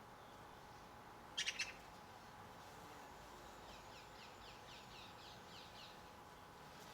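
Wild garden birds calling: a short burst of three sharp high calls about a second and a half in, the loudest sound here, then a faint, rapid run of about ten short falling notes a couple of seconds later.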